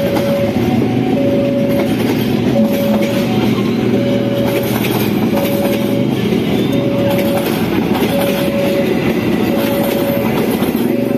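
Passenger coaches of a locomotive-hauled commuter train rolling past, with a loud, steady rumble and wheels clacking over the rails. A level-crossing warning signal beeps on and off throughout, about once every second and a half, in two alternating tones.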